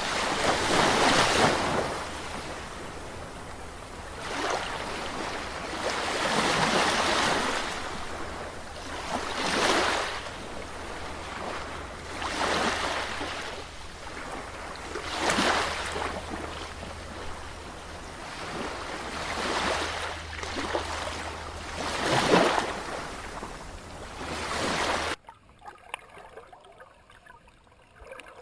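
Waves washing in again and again, a swell of splashing about every two to three seconds, over a steady low hum. The sound cuts off abruptly near the end, leaving only faint background noise.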